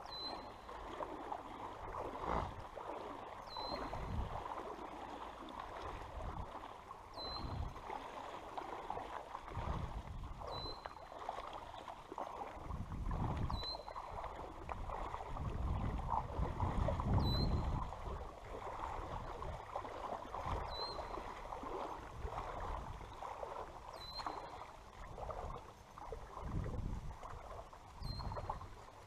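Creek water running and sloshing, with uneven low rumbles. A short high chirp repeats about every three to four seconds throughout.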